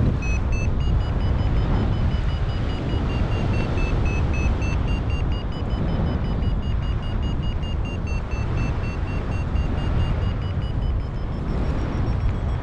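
Strong wind buffeting the microphone, under a paragliding variometer beeping rapidly in short electronic pulses. Its pitch drifts gently up and down, the climb tone that signals the glider is rising in lift.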